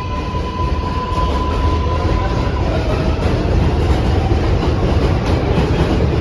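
New York City Subway 7 train running on the rails, a loud, steady rumble with wheel clatter. A steady high tone sounds over it and stops about two and a half seconds in.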